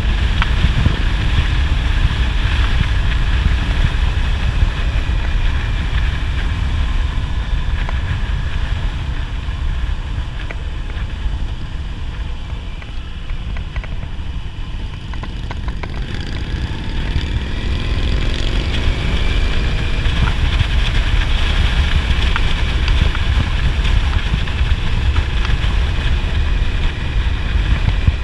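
Heavy wind buffeting a microphone on a moving motorcycle, with the engine running underneath. The engine note rises a little past halfway through.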